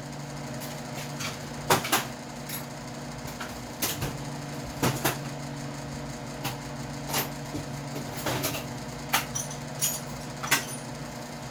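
Scattered sharp metal clicks and clinks of hand tools being picked up and set down, about a dozen, over the steady hum of a noisy shop fan.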